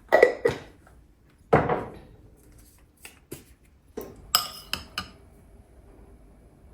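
Dishes and cutlery clinking and knocking: several separate clatters, some with a short ringing note, the busiest cluster a little past the middle.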